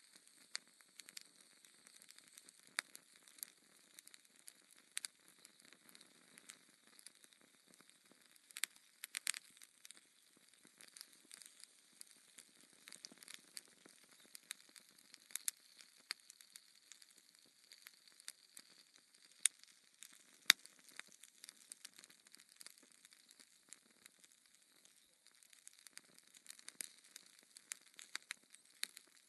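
Wood fire crackling in a fireplace: a soft hiss with irregular sharp pops and snaps, two louder pops about twenty seconds in.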